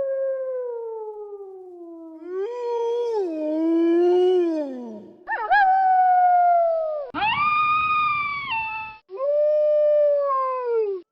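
Wolves howling: a string of about five long howls in a row, each gliding up in pitch, holding with some wavering, then falling away.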